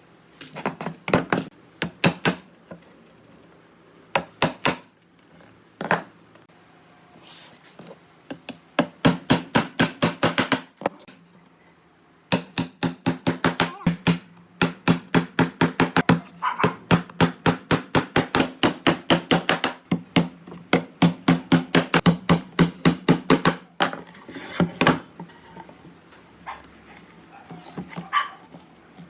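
Hammer striking wood over and over, in quick regular runs of about four to five blows a second, with pauses and a few single knocks between runs.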